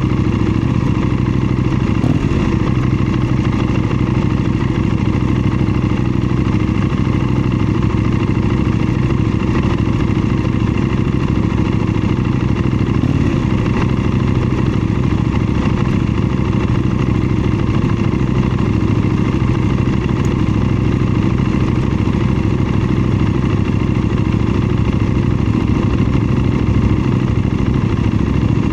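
KTM 790 Duke's parallel-twin engine running at a steady, unchanging engine speed, with no revving up or down.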